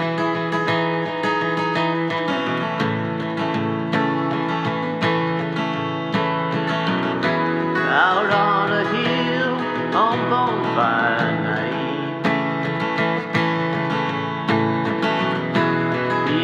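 Music: acoustic guitar strumming a steady rhythm, with a wavering lead melody line over it from about eight to twelve seconds in.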